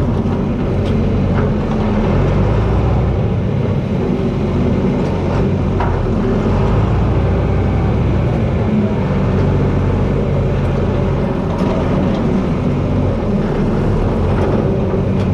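John Deere 4320 tractor's six-cylinder diesel engine running steadily, with a few faint clicks over it.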